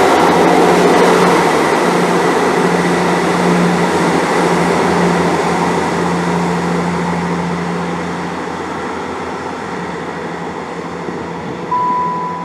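Diesel multiple unit train running at the platform, a steady engine hum and rail noise that slowly fade as it pulls away. Near the end a short beep sounds.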